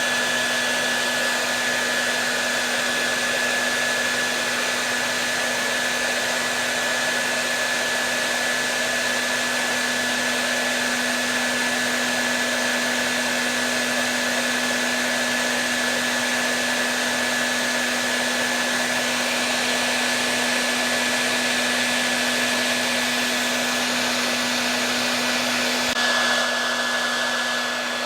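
Hair dryer running steadily: an even rush of blown air with a constant motor hum, shifting slightly near the end.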